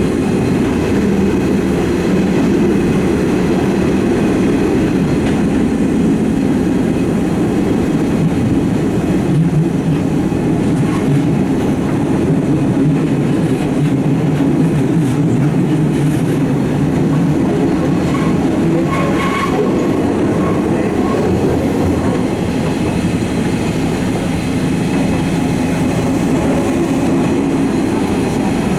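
Eizan Electric Railway railcar running along the track, heard from on board: a steady rumble of wheels on rail and running gear, with a brief high wheel squeal about two-thirds of the way through.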